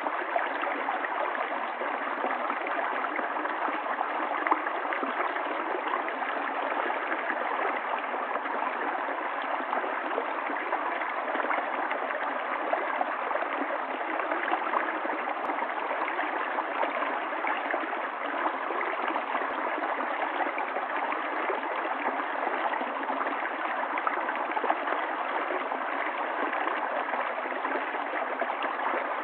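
Running water of a stream, flowing steadily with an even, unbroken rush.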